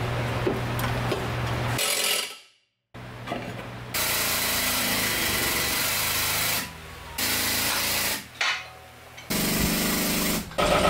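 Workshop power tool running in several stretches of dense, rasping noise that start and stop abruptly, with a brief silence a little over two seconds in.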